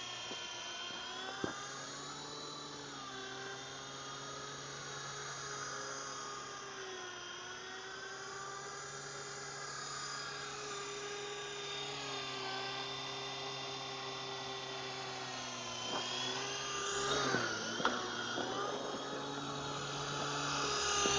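Electric rotor motors of an Ozone Elite 3.5-channel toy RC helicopter whining steadily in flight, the pitch drifting up and down as the throttle changes. A few light knocks come late on.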